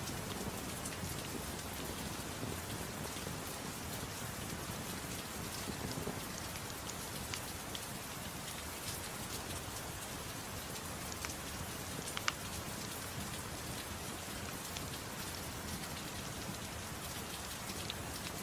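Steady gentle rain with scattered small crackles and pops of a wood fire, one slightly sharper pop about twelve seconds in.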